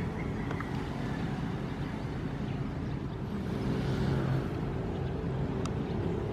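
Ocean waves: a steady low rumble of surf, with one wave swelling and washing in about four seconds in.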